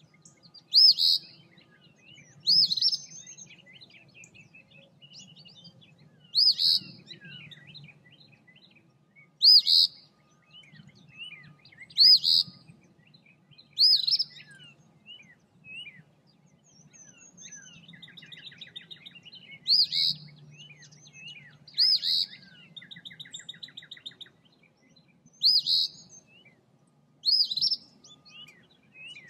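Eastern phoebe singing, repeating its short song phrase about ten times, one every two to three seconds, with a longer pause in the middle.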